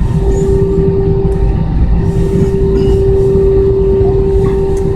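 Steady low rumble inside a moving vehicle, with a constant mid-pitched hum that drops out briefly about two seconds in.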